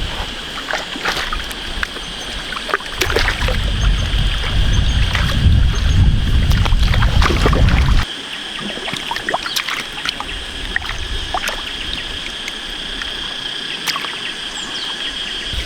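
Water and mud sloshing with scattered small splashes as someone wades through shallow muddy water, hunting fish by hand. A steady high hum runs underneath, and a low rumble cuts off suddenly about eight seconds in.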